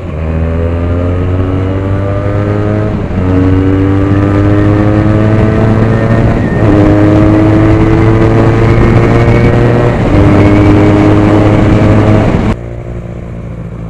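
Benelli TNT 300 parallel-twin motorcycle accelerating hard through the gears with a loud aftermarket exhaust. The engine note climbs steadily, drops back at each of three upshifts, then cuts off suddenly near the end.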